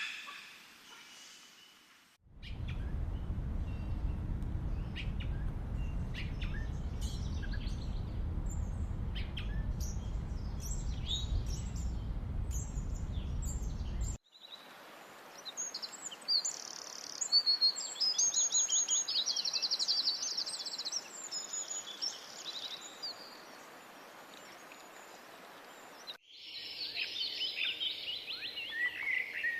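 Wild birds calling in a stretch of forest ambience that changes abruptly several times: first a steady low rumbling noise with faint scattered chirps over it, then clear high calls and rapid trills, then a dense chorus of chirping birds near the end.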